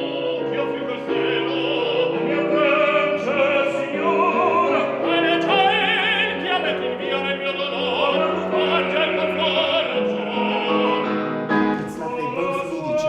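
Opera music: a classically trained voice singing sustained notes with wide vibrato over accompaniment.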